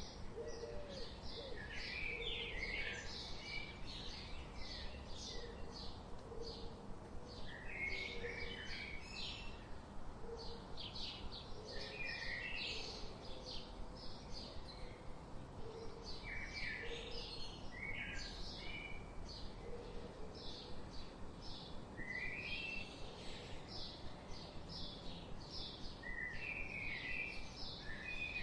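Birds chirping and twittering, a continuous chorus of many short, high calls, over a steady low background noise.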